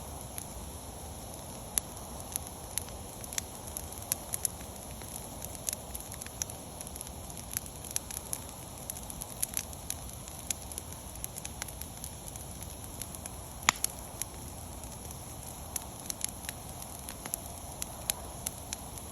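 Wood bonfire crackling: irregular sharp pops over a steady hiss, with one louder pop about 14 seconds in.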